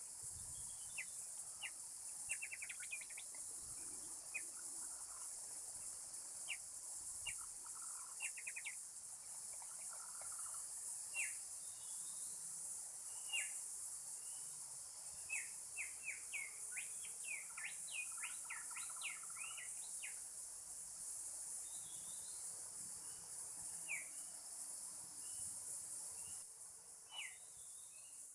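Short bird chirps, scattered at first and then a quick run of a dozen or so notes about two-thirds of the way through, over a steady high buzz of insects.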